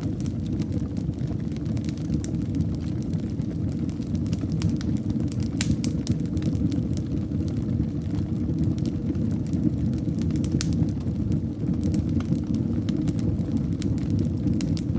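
Wood fire burning in a fireplace: a steady low rumble of flames with scattered crackles and pops, one sharper pop about five and a half seconds in.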